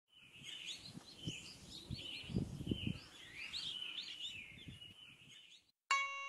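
Songbirds chirping and warbling over quiet outdoor background noise, with a few soft low thumps in the middle. Near the end a single bright chime note, like a glockenspiel, strikes and rings on.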